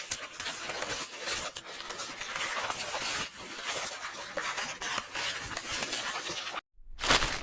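Continuous rustling and crackling of paper pages being turned and handled, with quick swishes and crinkles. Near the end it cuts out for a moment, then comes back with a louder rip of paper.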